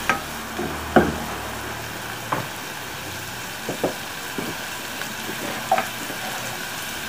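Shrimp sizzling steadily in garlic oil in a small ceramic-lined saucepan, with a few scattered taps and scrapes of a spatula against the pan, the loudest about a second in.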